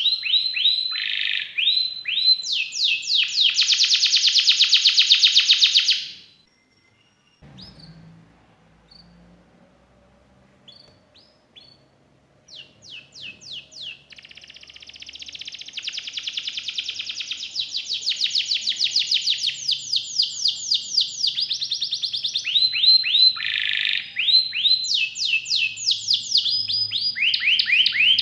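Domestic canary singing rapid rolling trills. The song breaks off about six seconds in, leaving only a few soft chirps, then starts again a little before halfway and runs on in long, fast trills.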